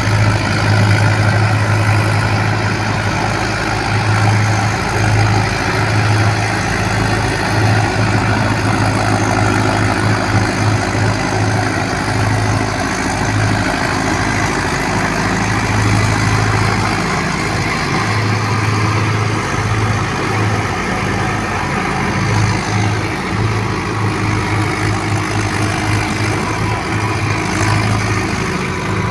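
Mahindra tractor's diesel engine running steadily with a strong low drone.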